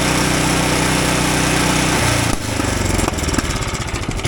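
Small gasoline engine of a portable sawmill running steadily, then throttled back about two seconds in to a lower, lumpy idle with slow, even pulses.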